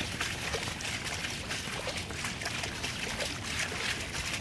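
Steady rush of floodwater flowing across a path out of a stormwater retention basin.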